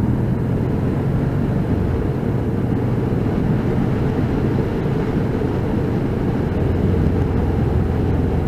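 Motorcycle engine running steadily while under way, heard through a microphone inside the rider's helmet, with a continuous low drone and an even rushing noise over it.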